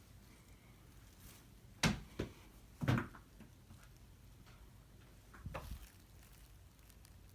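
Several sudden knocks or thumps at irregular moments, the loudest two about two and three seconds in, with a softer one near the end.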